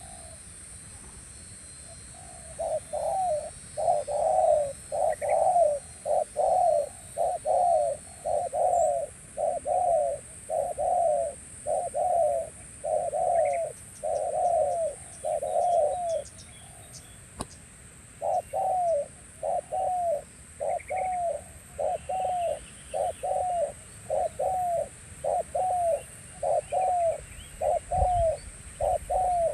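Spotted dove (terkukur) cooing: a long series of arched coos, about one and a half a second, that stops for about two seconds midway and then resumes. A faint steady high hiss and a few small-bird chirps lie behind it.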